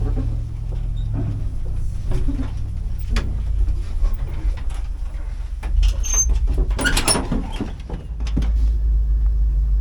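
Truck engine running at low speed with a steady low rumble, with scattered knocks and rattles that are loudest about seven seconds in.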